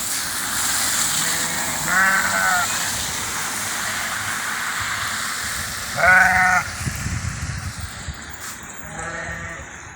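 Three short bleats from livestock, about 2, 6 and 9 seconds in, the middle one loudest, over a steady hiss of falling rain that thins out near the end.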